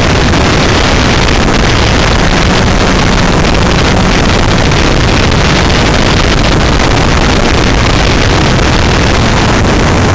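Open-cockpit Locost kit car's Ford crossflow four-cylinder engine running on track, mixed with wind buffeting the onboard microphone: a steady, loud din with no let-up.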